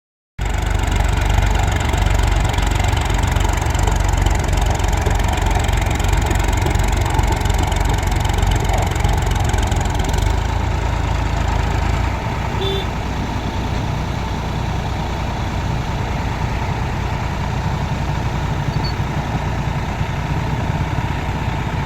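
Tractor diesel engine running steadily and loudly, dropping slightly in level about ten to twelve seconds in.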